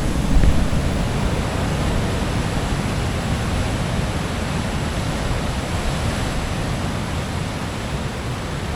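Steady rush of heavy ocean surf in a big swell, with wind noise on the microphone.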